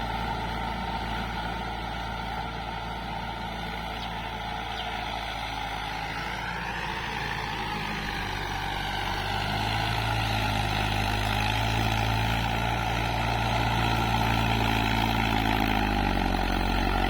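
Diesel engine of a 585 tractor running steadily while driving a rotavator through wet, muddy soil. The engine note shifts up and back down around the middle and grows louder in the second half.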